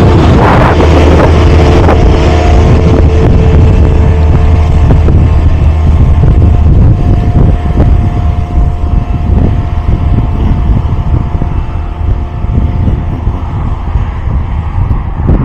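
A vehicle's engine running with a steady low hum, with wind buffeting the microphone.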